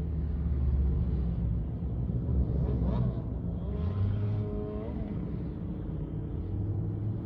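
Car engine and road noise, a steady low rumble, with a pitched tone gliding upward about three to five seconds in.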